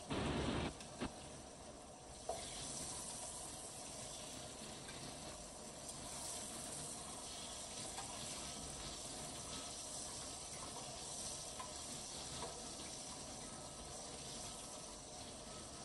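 Breaded white fish pieces sizzling steadily in a shallow layer of oil in a frying pan. There is a short louder noise right at the start, and a sharp click or two soon after.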